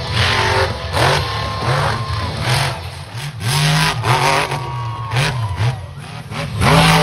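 Monster truck engine revving hard, its pitch climbing and dropping again and again in quick throttle blips, with short noisy bursts in between.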